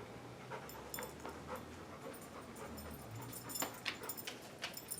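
Black Labrador making faint sounds with scattered light clicks.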